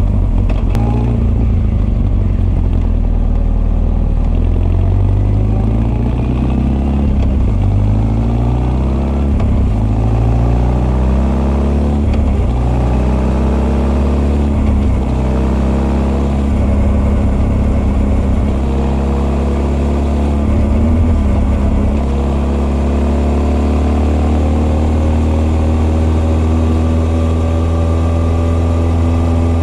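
Honda CB1300's inline-four, breathing through Keihin FCR41 carburettors and an r's gear Wyvern full exhaust, pulling out of a hairpin: the revs climb and drop back several times as it works through the gears, then rise in one long steady pull near the end.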